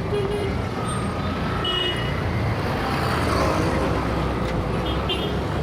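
Heavy city traffic: a steady, dense rumble of many car, bus and truck engines, with a few faint short tones over it.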